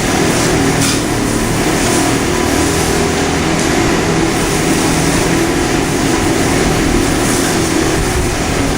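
Steady machine drone with an even hiss over it, running without a break.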